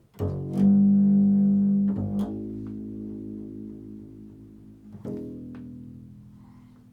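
Low-pitched string instrument notes in an improvised piece: about four notes struck or plucked and left to ring, each slowly fading, the loudest about half a second in.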